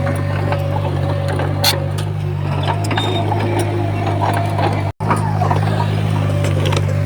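Heavy earthmoving machinery's diesel engine running steadily, with scattered metallic clanks and knocks. The sound cuts out for an instant about five seconds in.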